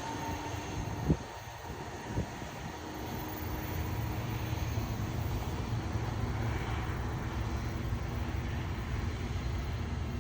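Steady low rumble of an Amtrak train, growing a little louder about four seconds in, with two or three sharp knocks in the first couple of seconds.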